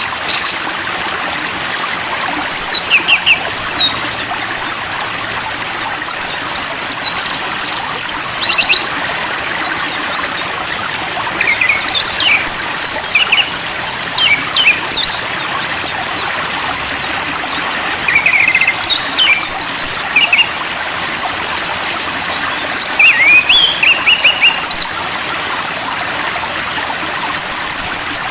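Running water trickling steadily under a small songbird's high whistled phrases. The phrases are made of quick rising and falling notes and come in bursts every few seconds.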